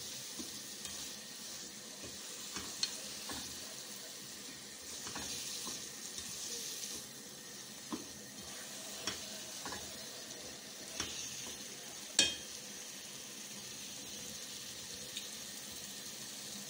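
Grated carrots for gajar ka halwa frying in desi ghee, sizzling steadily while a spatula stirs and scrapes through them, with scattered clicks and knocks of the spatula on the pan; the loudest knock comes about twelve seconds in. This is the roasting (bhunai) stage, with sugar and khoya melting into the carrots.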